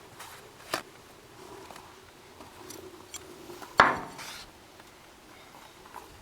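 Small metal parts of a hydraulic cylinder being handled: a sharp click just under a second in, then a louder clink with a short ring about four seconds in as a part is set down.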